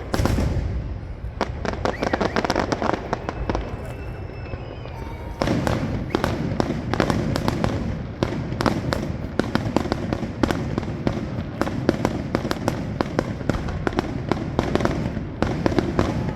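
Fireworks display: a rapid, continuous crackle of many sharp pops over a low rumble of bursts. The crackle grows much denser about five seconds in.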